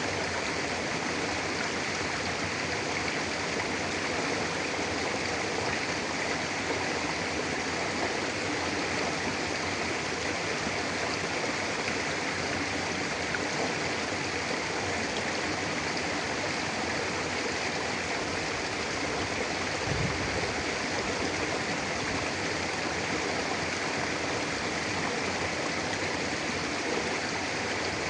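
Mountain river flowing steadily over rocks: an even, unbroken rush of water. A brief low bump sounds about twenty seconds in.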